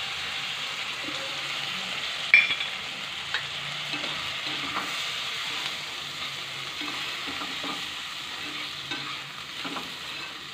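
Potato and brinjal pieces with a cumin and poppy-seed paste sizzling in hot oil in a non-stick kadai while a slotted spatula stirs them, scraping and knocking against the pan. The masala is being sautéed (kosha). One sharp knock comes about two seconds in.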